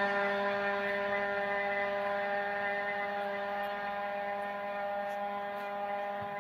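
Thai racing longtail boat's KR engine running at steady high revs, a steady droning tone that slowly fades.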